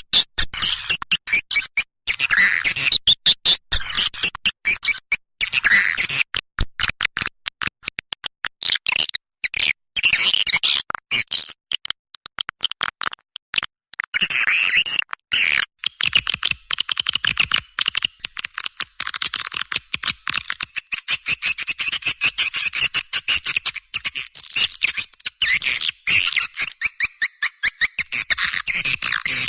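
Recorded swiftlet calls: a dense, rapid chatter of high chirps and twitters, chopped by many abrupt short silences as in an edited call loop. It is the kind of call track played to lure swiftlets into a nesting house.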